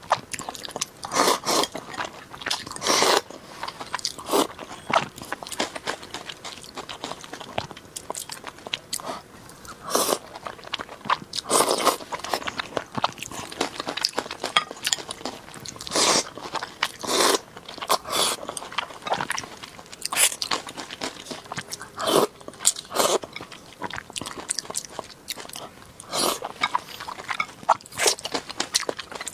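A person eating close to the microphone: irregular wet chewing, biting and crunching sounds, with a louder bite every few seconds.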